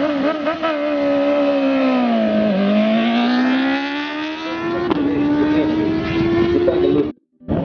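A high-revving racing engine, blipped several times in quick succession, then falling in pitch and climbing steadily again as it pulls. The sound cuts out abruptly for a moment near the end.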